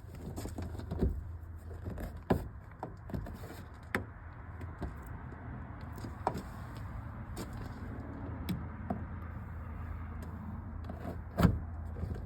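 Scattered small clicks and knocks of hands working with screws and parts on a pickup truck, with one louder knock near the end, over a steady low hum.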